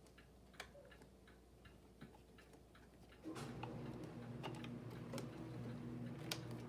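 Small clicks and taps of plastic parts and screws being handled during reassembly. About halfway through, a steady low electric hum starts.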